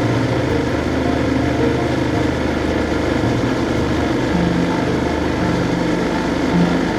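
Ducati Scrambler 1100's air-cooled L-twin engine running on the move, its note shifting about four seconds in.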